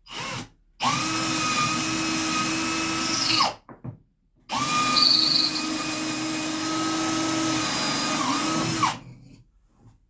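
Electric drill boring bolt holes through a wooden cornhole board for the leg bolts. After a short blip it runs in two long steady bursts of about three and four seconds with a brief pause between, the motor winding up at the start of each and winding down at the end.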